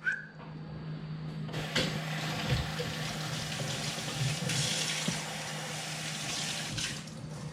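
Kitchen tap running into a sink, a steady rush of water that starts a couple of seconds in and stops shortly before the end, over a steady low hum.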